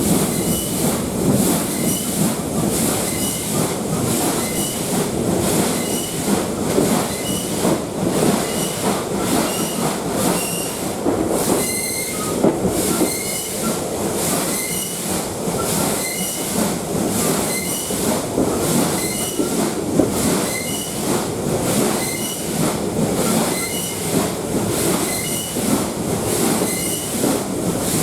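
Steam locomotive C57-1 working up a grade with steady exhaust beats, and a metallic squeal ('kyuiin') recurring with the beat. The squeal is the sign of a broken sealing part in one of its two cylinders. Heard from a passenger coach behind the engine.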